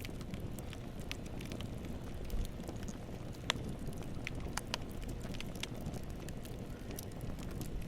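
Campfire burning: a low steady rumble of flames with scattered sharp crackles and pops from the burning wood. The loudest pop comes about three and a half seconds in.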